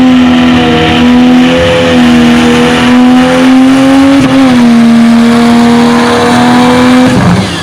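Pickup truck engine held at high, steady revs at full throttle while pulling a sled, with a brief dip and pick-up about four seconds in and a sharp fall-off near the end as the pull stops short. Only the rear wheels were driving, the front differential not turning.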